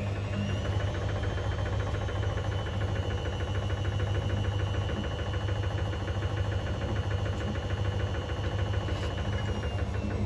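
Hoover washing machine's brushed motor spinning the drum. Its whine rises in pitch over the first second and then holds steady, dipping near the end, over a steady hum and a fast, even rattle. The uploader puts the rattle down to a £1 coin trapped under the heating element.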